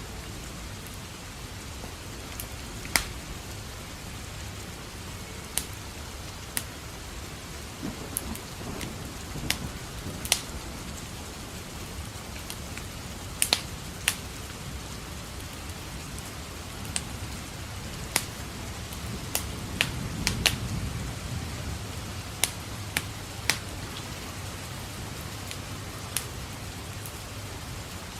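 Steady rain hiss with a wood fire crackling in sharp, irregular pops, and low thunder rumbling that swells about twenty seconds in.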